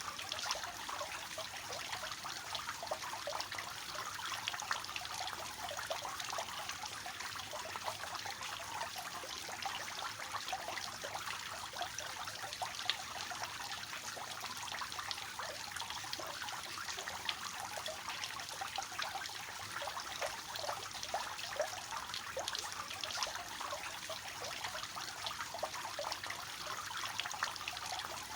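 Garden fountain with water falling over three tiers, a steady splashing and trickling.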